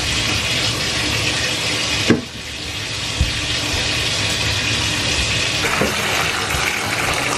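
Bath tap running, water pouring into a filling bathtub with a steady rush. A knock about two seconds in, after which the rush dips briefly and builds back, with a few soft thumps later.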